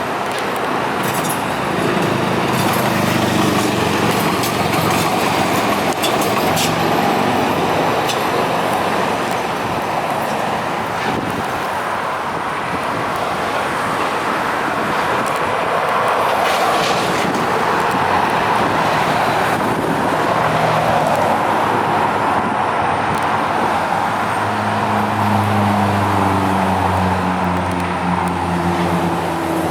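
Steady rumble of passing vehicles, with a low hum that comes in near the end and drifts slightly down in pitch.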